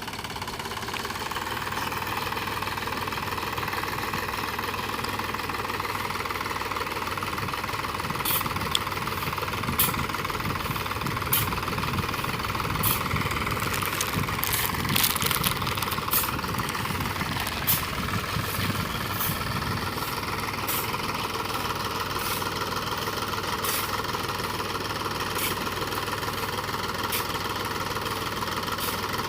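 Mahindra 275 DI tractor's diesel engine running steadily. From about eight seconds in, sharp clacks come roughly every second and a half over the engine.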